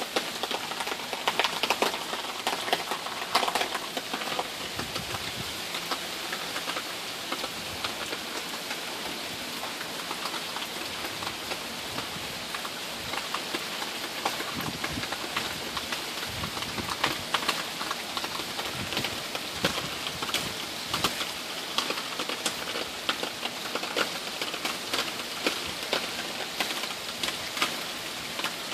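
Steady rain from Hurricane Matthew, a dense patter of drops on foliage and wet ground, with the wind still light.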